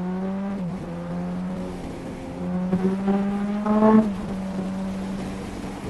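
900 cc motorcycle with an aftermarket sport exhaust accelerating. The engine note climbs and drops sharply at an upshift about three-quarters of a second in. It climbs again to its loudest just before a second upshift about four seconds in, then holds steady.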